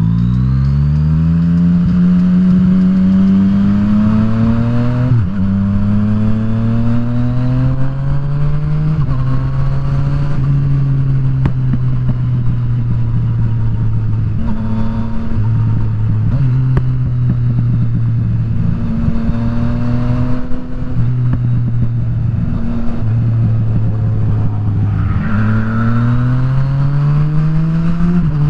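Yamaha FZ-09's three-cylinder engine accelerating through the gears, its pitch climbing and then dropping at upshifts about five and nine seconds in. It then holds a fairly steady cruise with brief dips off the throttle, and climbs again near the end under acceleration, over steady wind and road noise.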